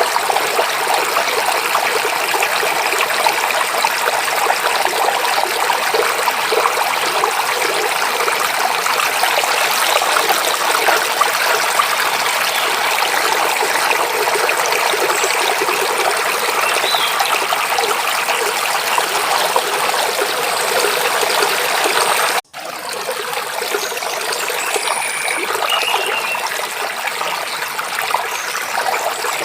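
Stream water rushing and babbling steadily over rocks, with a few faint bird chirps. The water cuts out for an instant about three-quarters of the way through, then carries on slightly quieter.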